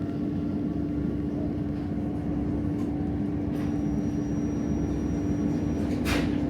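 Regional passenger train running: a steady rumble with a constant hum, and a brief hiss about six seconds in.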